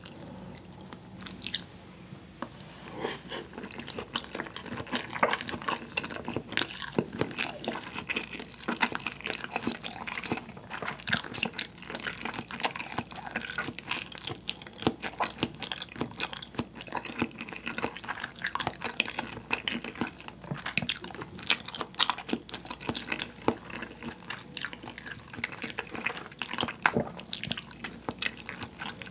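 Close-miked wet chewing of firm, soy-sauce-marinated raw salmon with rice: a dense run of small wet smacks and clicks, sparser for the first couple of seconds.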